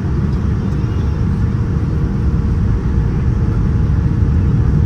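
Steady, loud low rumble of a Boeing 787-9's engines and airflow heard inside the passenger cabin, with a faint steady hum in it.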